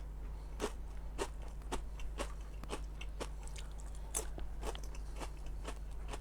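Close-up chewing of crunchy fried fish skin crisps, sharp crunches about twice a second.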